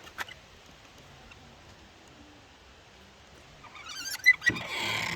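A small wooden door on an old log corn crib creaking on its hinges near the end, a squeak rising in pitch, followed by two sharp knocks and a brief scraping rustle.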